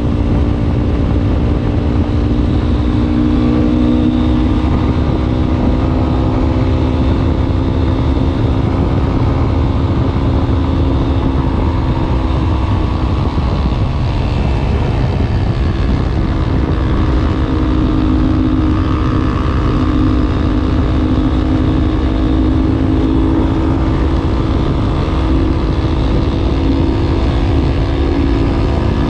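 Yamaha Ténéré 250's single-cylinder engine and exhaust running steadily, its pitch sagging a little midway and climbing again toward the end.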